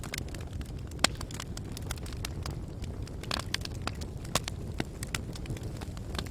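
Wood fire burning in a fireplace, a steady low rumble with irregular crackles and sharp pops, the loudest about a second in and just past four seconds in.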